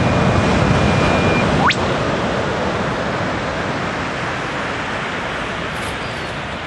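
Male eastern whipbird calling: one long held whistle, then a fast upward whip-crack about a second and a half in. Steady wash of surf underneath.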